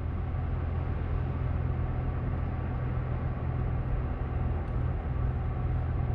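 Steady low hum of a car's engine and tyres heard from inside the cabin while driving.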